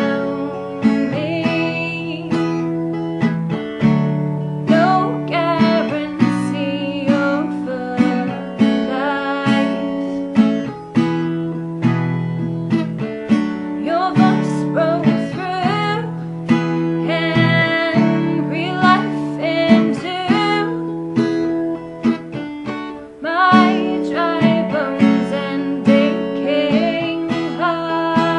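Acoustic guitar strummed in chords, with a woman singing along.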